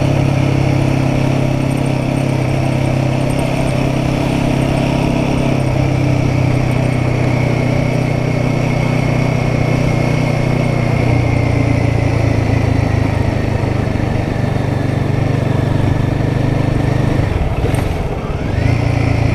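Royal Enfield Guerrilla 450's single-cylinder engine running at steady road speed with wind noise. About 18 seconds in, the engine note dips briefly and picks up again.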